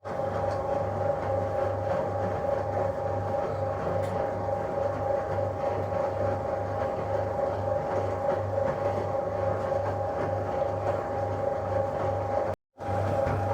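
1966 Bendix LA automatic washing machine running: a steady hum with a low throb pulsing about two and a half times a second, briefly cut out near the end.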